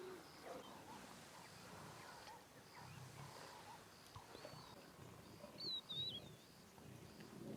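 Faint wildlife ambience: low animal growls under a faint high chirp that repeats about twice a second. A warbling bird whistle comes about five and a half seconds in.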